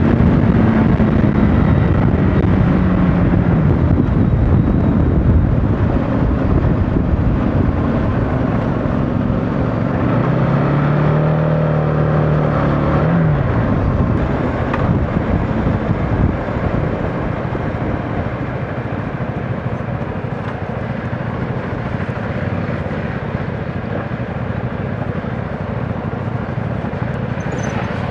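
CFMOTO motorcycle engine running under way, under heavy wind rush. Its note falls away at the start, holds steady for a few seconds in the middle, then drops off sharply about thirteen seconds in.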